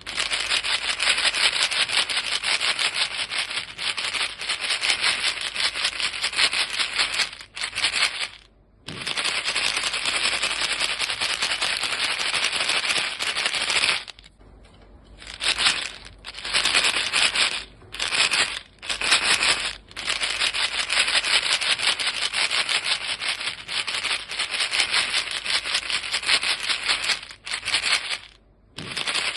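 Box of chewing gum pellets being shaken, a dense, rapid rattle of pellets against the box. It stops briefly about eight seconds in, for over a second around the middle, in a few short gaps just after, and again near the end.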